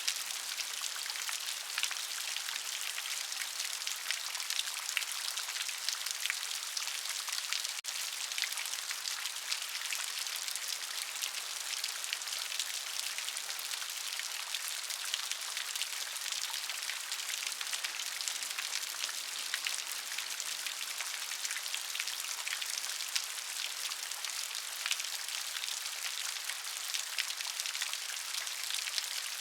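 Steady rain, a dense patter of many small drops falling on a surface, with the sound mostly high and hissing rather than deep.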